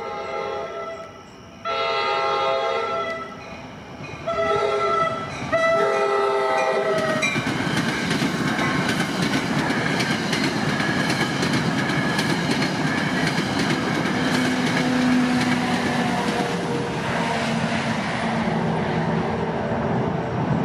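New Jersey Transit passenger train's multi-chime horn sounds the grade-crossing signal: two long blasts, a short one, then a long one. The train then passes close by, with the steady rush and clatter of its wheels over the rails.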